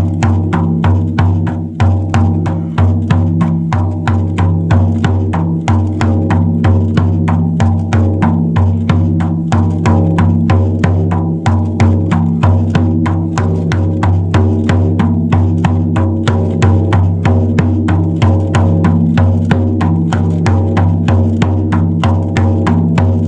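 A drum beaten in a steady, fast, even rhythm, with low ringing tones sustained underneath.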